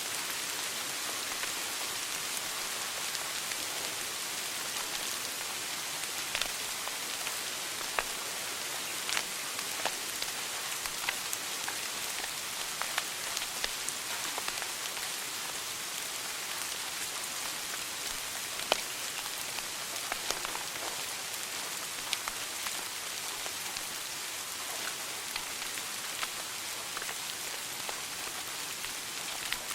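Wood fire burning in a fireplace, crackling: a steady hiss with frequent sharp pops and snaps, one louder pop a little past halfway.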